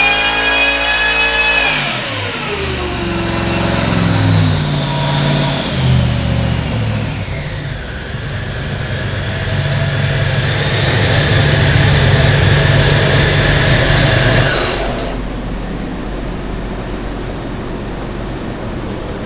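Blown (supercharged, carbureted) Ford 347 stroker small-block V8 on an engine dyno, coming off a high-rpm pull: the pitch falls steeply about two seconds in. It settles into a lumpy low idle with a couple of short blips. About fifteen seconds in the engine stops, leaving a steady rushing noise.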